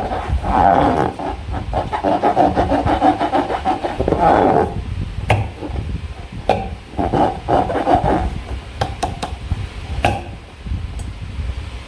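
Hands squeezing and rubbing slime against rubber balloons: a dense crackling, squelching texture peppered with sharp clicks, busiest in the first few seconds, then coming in shorter spurts and single clicks.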